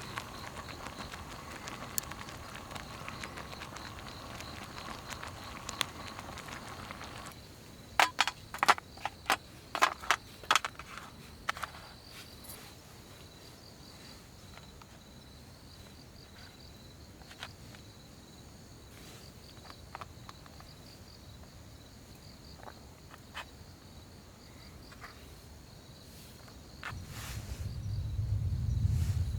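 Insects calling in a steady high drone, with a quick run of sharp clicks and knocks about eight to eleven seconds in and a low rumble building near the end.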